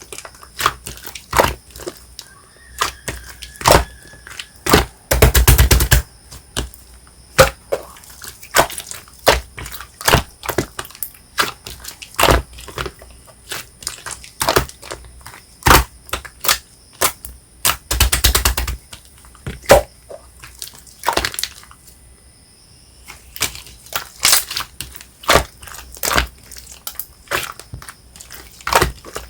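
Marbled slime made with shaving foam being squished and poked by hand, giving irregular sticky clicks and pops, with two longer runs of rapid crackling about five seconds in and again near the middle.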